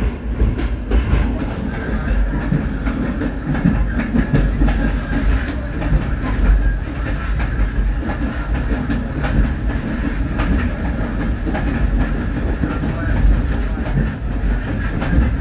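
Train cars rolling along the track: a steady rumble of steel wheels on rail, with irregular clicks and clacks as the wheels pass over rail joints, heard riding aboard the train.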